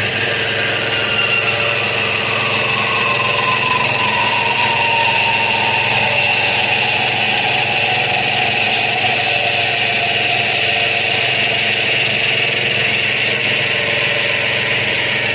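STALEX TBK 4228B automatic double-column metal-cutting band saw running, its blade cutting through stock with a steady hiss and whine. A fainter tone falls slowly in pitch over the first few seconds.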